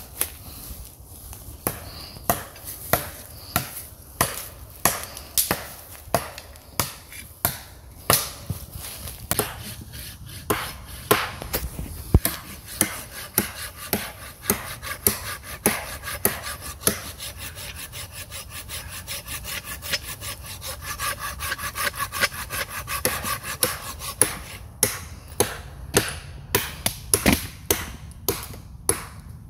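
A long run of sharp wooden cracks and scrapes, roughly two a second, over a low background rumble.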